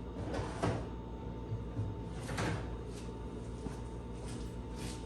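A few scattered light knocks and clunks of a brake caliper and parts being handled, over a faint steady hum.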